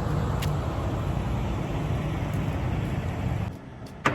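Semi truck's diesel engine running with a steady low rumble, which cuts off suddenly about three and a half seconds in.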